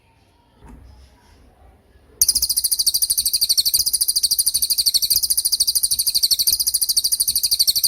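A cililin bird's 'tembakan' song: a long, very rapid, high-pitched trill of evenly repeated notes. It starts about two seconds in and runs loud and unbroken to the end.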